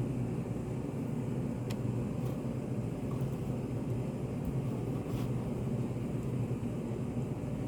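Study café room ambience: a steady low hum and rumble, with a few faint light clicks about two and five seconds in.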